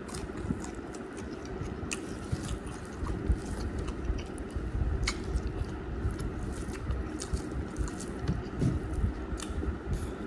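A person chewing mouthfuls of rice and curry close to the microphone: continuous chewing with many small clicks of the mouth and lips.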